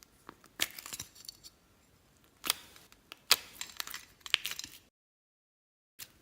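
Slime being handled, with bursts of sharp crackly clicks and pops as it is pressed and stirred. The sound drops out completely for about a second near the end, then the clicking resumes.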